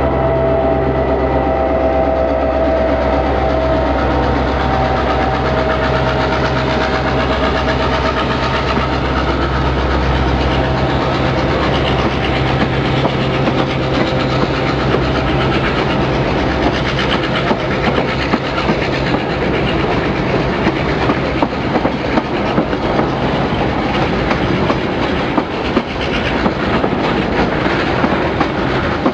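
DBR class diesel locomotive's EMD 645 V8 two-stroke engine droning as it passes, its sound fading over the first ten seconds or so. Passenger carriages then roll past with a steady rumble and clickety-clack of wheels over rail joints, the clicks coming more often later on.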